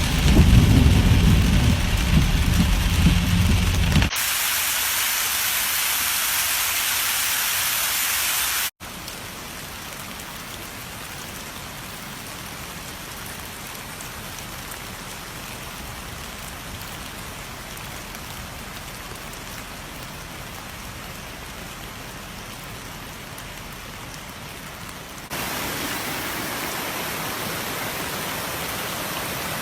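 Steady rush of fast-flowing floodwater. A deep rumble runs through the first four seconds, and the sound changes abruptly in loudness and tone at cuts about 4, 9 and 25 seconds in.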